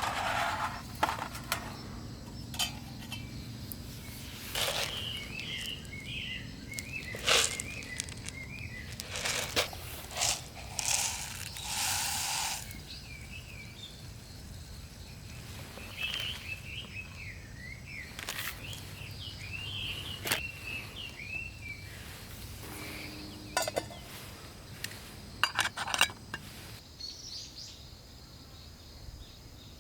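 Outdoor camp ambience: birds chirp in spells, over a low steady background. Sharp knocks and clinks of gear being handled come at intervals, with a cluster of them near the end.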